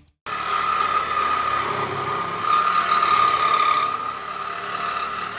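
A motor running steadily with a high whine over a hiss. It starts suddenly and eases off near the end.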